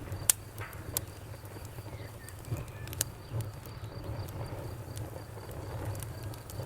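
Wood fire burning in a fireplace: sharp crackles and pops, the loudest about a third of a second in and others near one and three seconds, over a low steady rumble of the flames.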